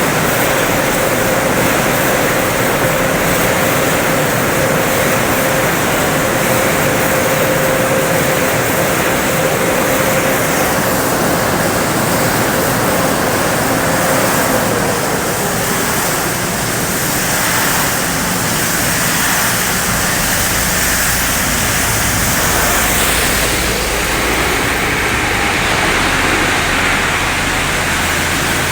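Touchless automatic car wash running: a steady rush of high-pressure water spray. A thin steady whine sits under it and stops about halfway through, and a low hum comes in after that.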